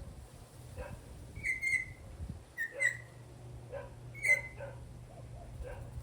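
Three loud whistled notes from a Venezuelan troupial, over a dog barking repeatedly in the distance.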